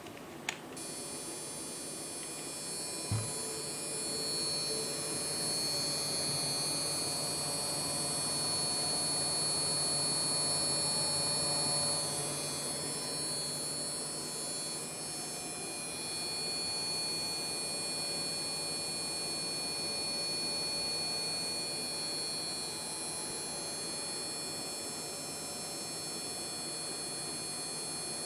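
A PC motherboard's small beep speaker giving off a steady, high-pitched electrical buzz made of several whining tones, which starts abruptly about a second in and runs on over the hiss of the computer. The buzz comes up while the computer runs games and stops once the speaker is unplugged. A single low thump sounds about three seconds in.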